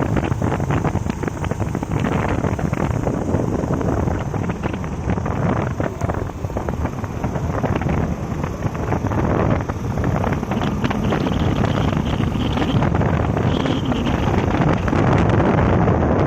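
Wind buffeting the microphone of a moving motorcycle, a steady rush with the bike's running and road noise underneath.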